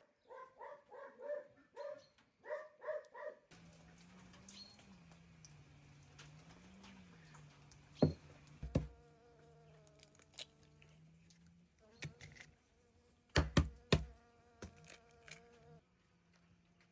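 A fly buzzing close by, a steady hum that wavers in pitch, with a few sharp knocks partway through. It opens with a quick rhythmic series of short pulsed sounds.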